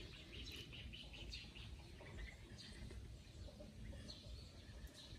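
Faint bird chirps over a low background rumble: a quick run of high chirps in the first second or so, then a few single calls.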